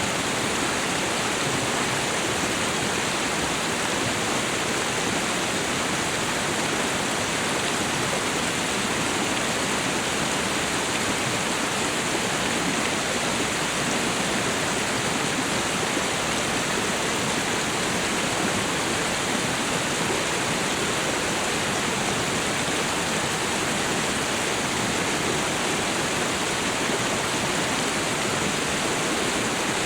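Reservoir water flowing hard, a steady, unchanging rush of moving water.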